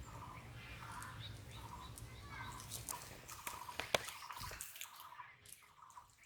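Water dripping and splashing, with scattered sharp clicks and a low rumble that stops about three-quarters of the way through.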